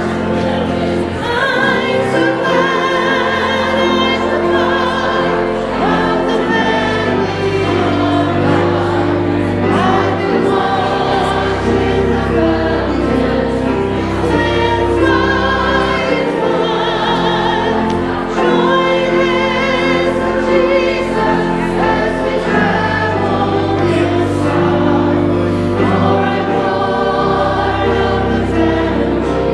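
Church choir singing with instrumental accompaniment, the voices holding long notes over a sustained low bass line.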